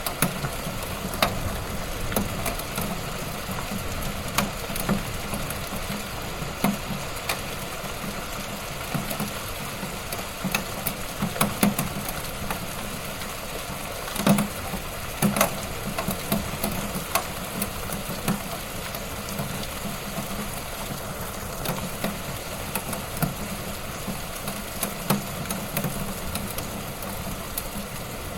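Wood fire in a fireplace crackling, with a steady hiss and irregular sharp pops, a few of them louder.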